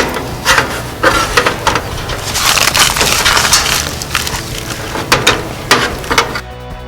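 Irregular clicks, knocks and rustling of parts and tools being handled while an air conditioner's capacitor is swapped out, busiest around the middle, with music underneath.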